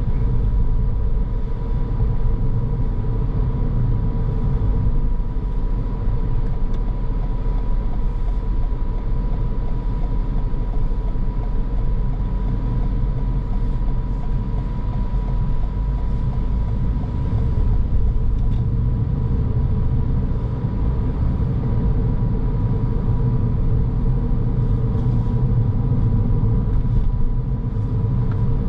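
Car driving along a road: a steady low rumble of engine and tyre noise that swells slightly around the middle, with a faint steady high whine over it.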